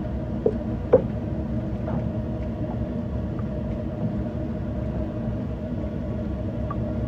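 Motorboat engine running steadily under way, a constant drone with a low rumble. Two short knocks come about half a second and one second in.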